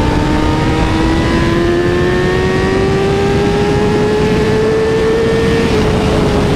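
Honda CBR1000RR Fireblade's inline-four engine accelerating hard at highway speed, its pitch rising steadily for about five and a half seconds, then easing off slightly near the end.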